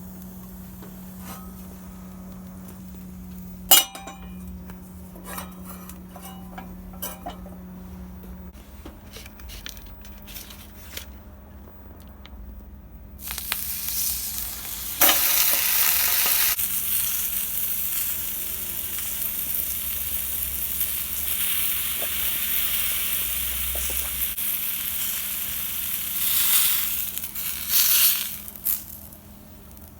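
Bacon sizzling in a frying pan. The sizzle starts suddenly near the middle, gets louder a couple of seconds later and swells again near the end. Before it come scattered clicks and knocks over a steady low hum, the sharpest click a few seconds in.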